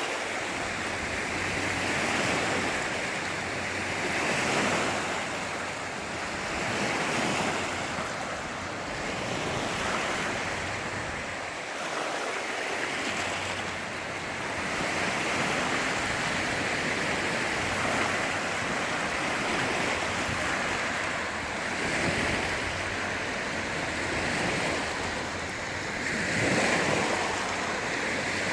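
Sea waves washing onto the shore, a steady rushing surf that swells and eases every few seconds, with some wind on the microphone.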